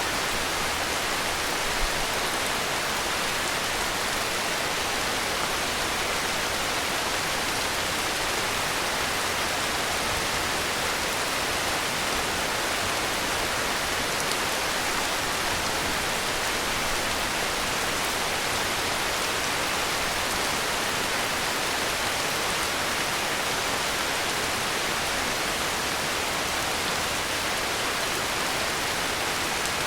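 Heavy rain falling steadily: a dense, even hiss with no thunder or sudden noises.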